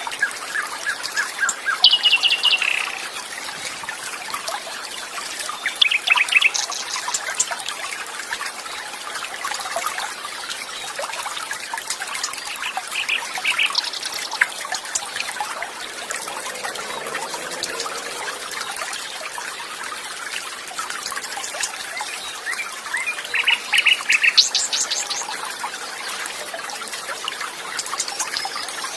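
Small birds chirping in short, rapid trilled phrases over a steady trickle of flowing water. The louder bird phrases come about 2, 6, 14 and 24 seconds in.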